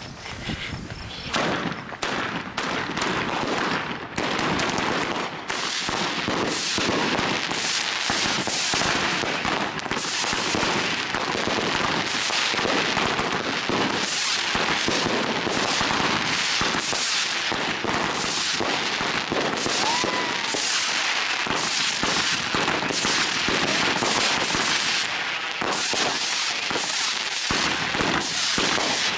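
Several consumer fireworks cakes going off together in a dense, continuous barrage of shots, bangs and crackling, ramping up over the first few seconds.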